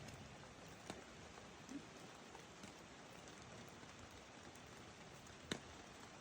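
Near silence: a faint steady hiss, with two faint ticks, one about a second in and one near the end.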